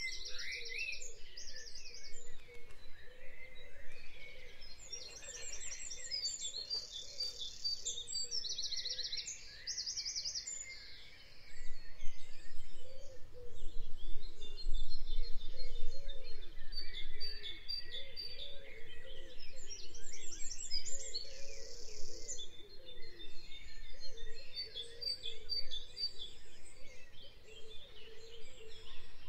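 Several birds chirping and calling over one another, with repeated fast, high trills throughout, growing louder about halfway through.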